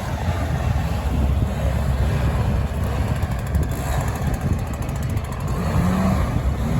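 A heavy engine running steadily, a low rumble with no rise or fall in speed.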